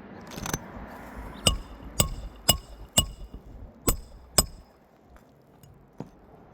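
Hammer striking the steel roof snake (a shingle nail-removal bar) six times in quick succession, sharp metallic clinks about half a second apart with a short pause before the last two, driving the bar under an asphalt shingle tab to shear the nails. A short scrape comes just before the strikes.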